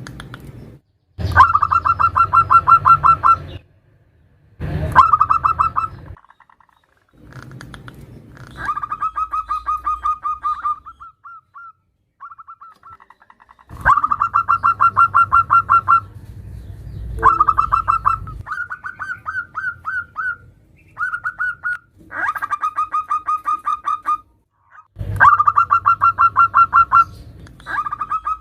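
Zebra dove (perkutut) calling: a female's call to a male, sounded as repeated bouts of fast staccato coos, each bout a rapid run of notes lasting one to two seconds, often loud at the start and trailing off, with short pauses between bouts.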